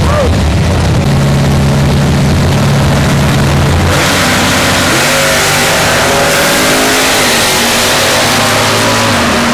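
Drag-race car engines at the starting line: a steady, loud engine note for the first few seconds, then an abrupt change about four seconds in to a hissier engine sound as a car launches and accelerates down the strip.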